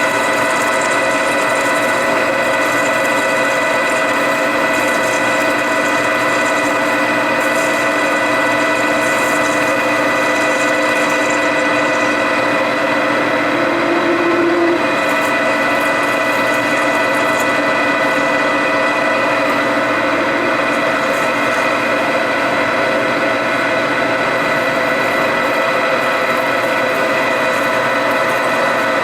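Metal lathe running steadily, a steady whine made of several fixed tones, while a parting tool cuts into a steel workpiece to part it off. A brief extra tone joins in about halfway through.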